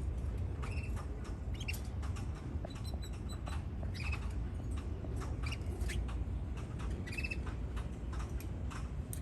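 Canaries giving short chirps and squeaky calls, scattered and irregular, mixed with little clicks, over a steady low rumble.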